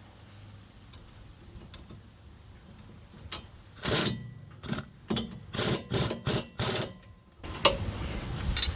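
Impact wrench fired in a series of about seven short bursts on a suspension fastener, starting about four seconds in.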